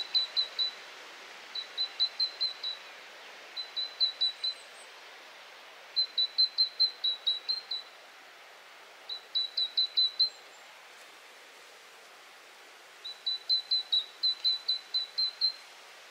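A songbird singing: runs of five to ten short, sharp, high notes at a steady pace, about six phrases a couple of seconds apart. Under them a faint steady hiss of breeze.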